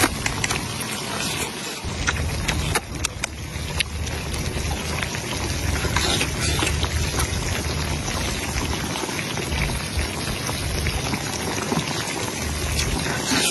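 Small Guizhou baojiang tofu cooking in hot oil, sizzling steadily with scattered sharp pops.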